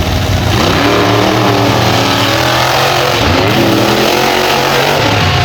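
Monster truck engines revving hard, their pitch climbing and falling repeatedly as the throttle works. The revving starts about half a second in.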